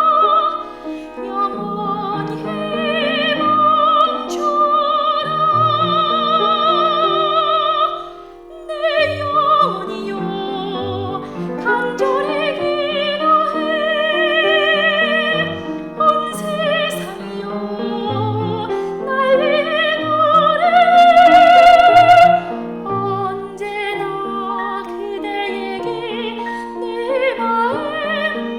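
Classical, operatic-style singing with strong vibrato on long held high notes, over instrumental accompaniment.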